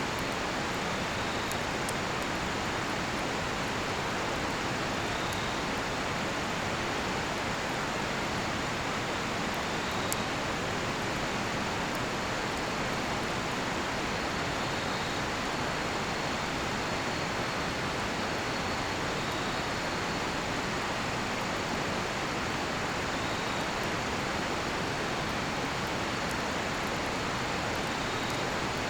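A river rushing steadily, with small crackles and pops from a cedar-wood campfire and faint insect chirps every couple of seconds.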